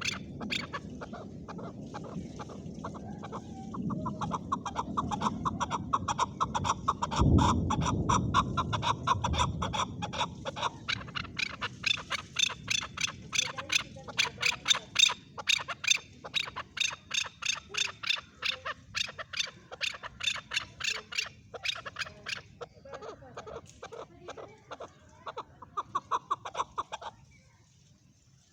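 Male chukar partridge calling: a long, fast run of repeated clucking notes that thins out and stops shortly before the end. A brief low rumble sounds under the calls about seven seconds in.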